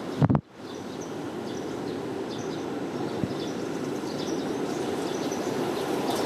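Steady outdoor background noise with faint, scattered chirps of small birds. A brief loud knock, like handling of the microphone, comes right at the start.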